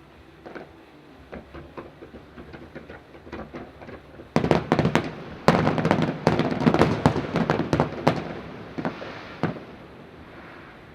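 Aerial fireworks going off: scattered bangs, then a dense, rapid barrage of bangs and crackle for about four seconds, thinning to a few last bangs before it fades.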